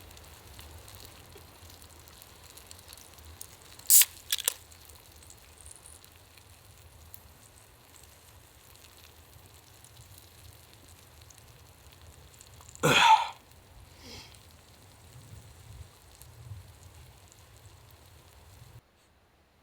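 Faint steady sizzle and crackle of a thick steak searing on an iron plate over an open wood fire. There are two sharp clicks about four seconds in and a louder brief burst of noise about two-thirds of the way through. The sound cuts off abruptly near the end.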